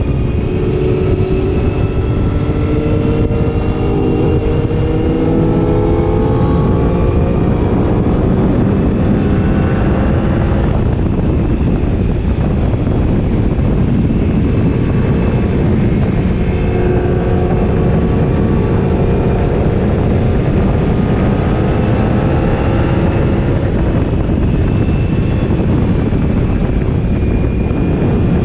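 Sport motorcycle engine pulling hard at high speed, its pitch climbing slowly for several seconds at a time, twice, under heavy wind noise on the microphone.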